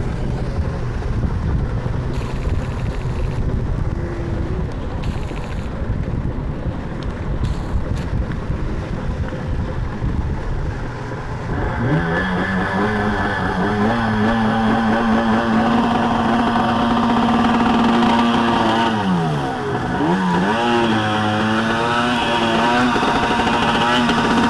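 Outboard motor on a SIMA 380 rigid-inflatable boat, with wind and water rushing at first. About halfway in the motor revs up to a steady high pitch, easing off and picking up again twice near the end.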